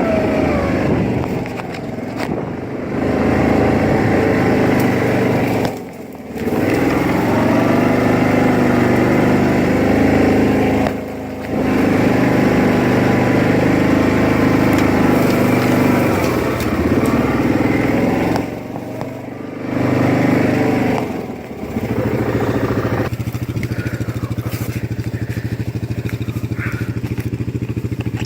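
Four-wheeler ATV engine running hard under load as it drags a log on a chain, the throttle easing off briefly about four times, then settling to a steady idle near the end.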